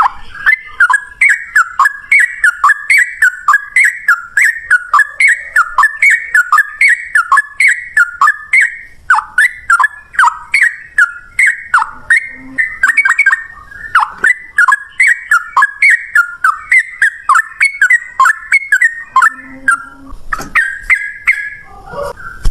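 Yellow-vented bulbul singing a rapid, unbroken run of short bubbling whistled notes, about two to three a second, each sweeping downward: the continuous 'ropel' song of a male in full voice.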